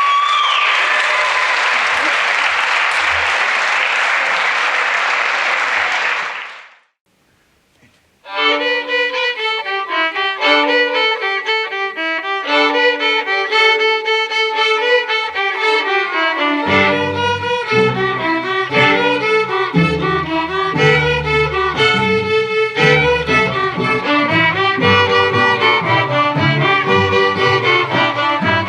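Audience applauding for about six seconds, then a moment of near silence before a school string orchestra begins playing, violins first, with lower strings joining about halfway through.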